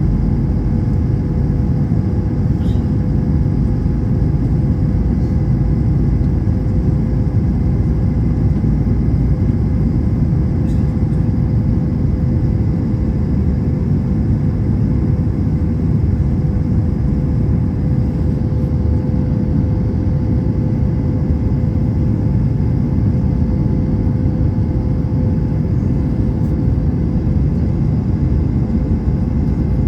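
Airbus A321 airliner cabin noise: a steady low rumble of the jet engines and airflow, with a constant hum running through it.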